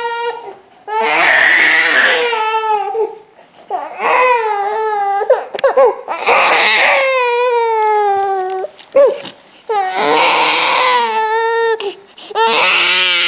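Fussy infant crying hard: about five long, high-pitched wails, each falling in pitch, broken by short gasping breaths and a couple of brief yelps.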